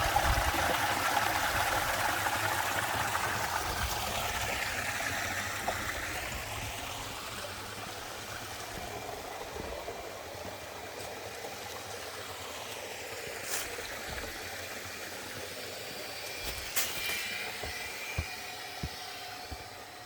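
Mountain stream rushing, fading steadily, with a few sharp clicks in the second half.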